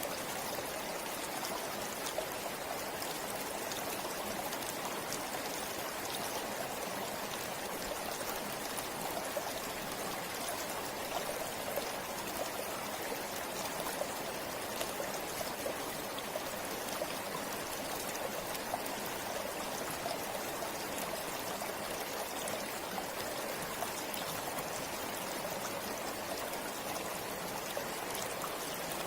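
A shallow river running steadily, its water burbling and trickling over stones in an even, unbroken rush.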